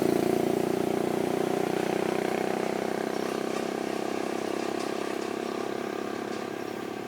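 An engine running at a steady speed, growing gradually quieter.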